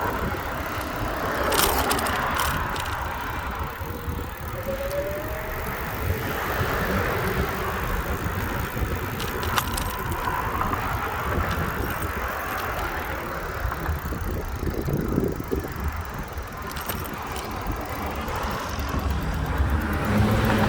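Riding a bicycle along a street: a steady rush of wind and road noise, with a few sharp clicks and rattles from the bike.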